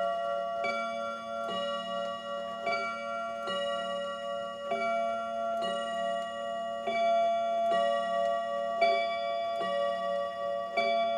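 New England Clock Company clock striking at the top of the hour: a strike about once a second, alternating between two ringing notes, each note sounding on until the next.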